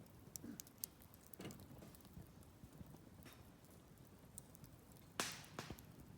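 Wood campfire burning quietly, crackling with scattered small pops and a sharp louder crack a little after five seconds in, followed by another soon after.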